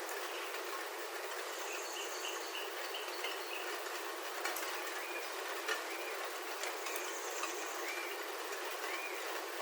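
Steady rain pattering on a roof, heard from inside, with a few sharper drop ticks. Birds sing over it: a quick run of repeated chirps early on, then short rising-and-falling whistled notes in the second half.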